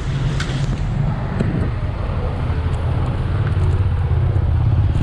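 Steady low rumble of wind and road noise while riding a bicycle, growing a little louder near the end.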